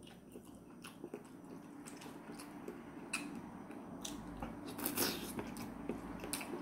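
Close mouth sounds of biting and chewing a soft, chewy stick of Korean fish cake (eomuk): scattered soft wet smacks and clicks over a faint steady hum.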